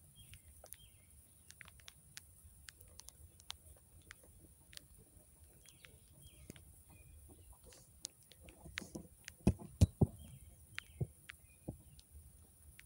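Small birds chirping in short calls against outdoor ambience, with scattered light ticks throughout. A few louder dull thumps come about three-quarters of the way in.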